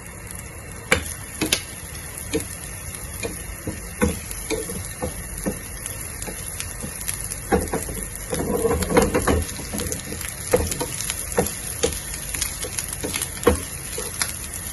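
Dried shrimp frying in about two tablespoons of hot oil in a pan over a high flame: a steady sizzle with irregular taps and knocks, busiest about eight to nine seconds in.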